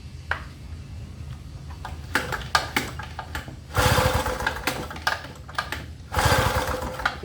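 Gasoline inverter generator being pull-started twice. Each pull turns the engine over in a pulsing sputter of about a second that dies out without catching: it reacts but won't keep running, which the mechanic puts down to the generator having sat in storage with a dirty carburettor. A few sharp clicks come before the first pull.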